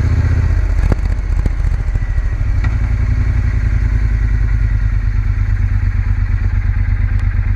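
Triumph Bonneville T120's parallel-twin engine running under way. Its note drops about a second in, then holds steady.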